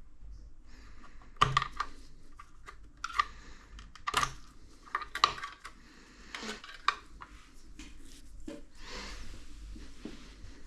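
Tools and small parts being handled while a TV is worked on: a string of irregular sharp clicks, taps and light clatters, thinning out to softer sounds over the last few seconds.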